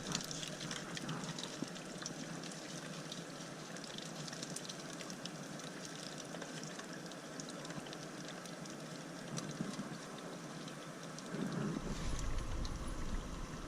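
Hot oil at about 375 °F in a small FryDaddy electric deep fryer sizzling steadily with fine crackles as bream fry in it. A low bump near the end.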